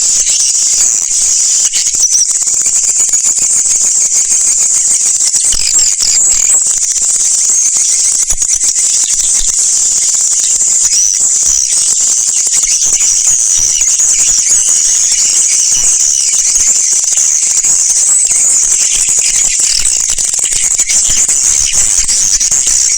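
Many swiftlets twittering and chirring without a break, a dense, high-pitched, steady chatter: a swiftlet call track of the kind played to draw the birds into a nesting house.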